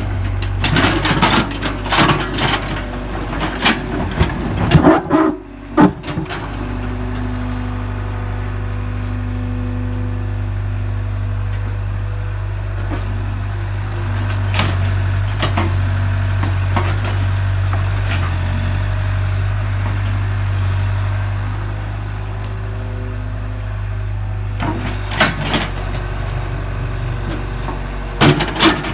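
Excavator's diesel engine running steadily, with bursts of knocking and clatter from the digging in the first few seconds and again near the end.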